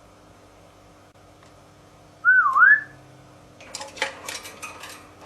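African grey parrot whistling once, a short clear note that swoops down in pitch and back up. About a second later, a run of sharp clicks and clatters begins.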